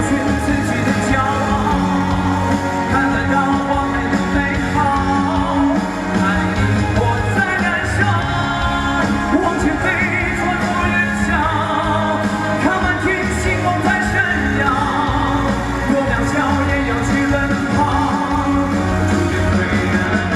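Pop-rock song performed live: a male singer holds long, wavering notes with vibrato over a steady band backing.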